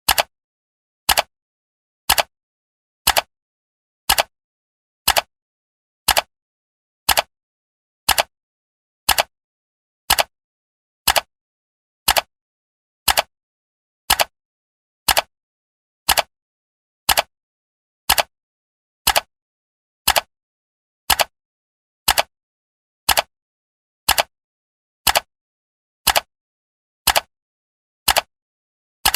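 Clock-tick sound effect, one sharp tick every second, with total silence between ticks.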